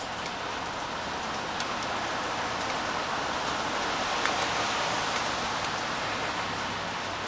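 Steady rain falling, an even hiss with a few sharper drop ticks, swelling slightly around the middle.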